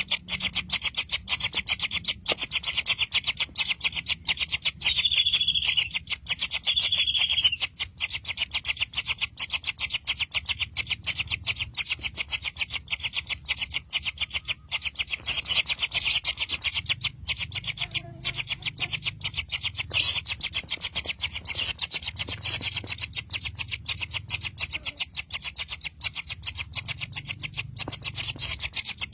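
Bird chicks begging to be fed, a fast, continuous rasping chatter with a couple of short, clearer calls about five to seven seconds in.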